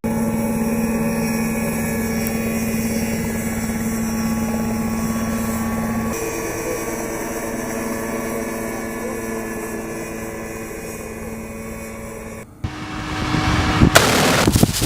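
A steady engine or turbine hum made of several fixed tones, slowly fading, cuts off abruptly about twelve seconds in. It is followed near the end by loud blasts of weapons fire.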